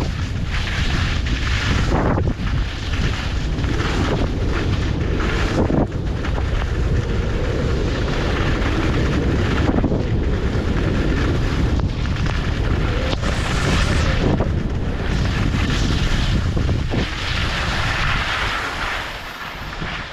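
Wind rushing over the microphone of a skier moving downhill: a loud, steady rush with a deep rumble and uneven gusts, easing off near the end.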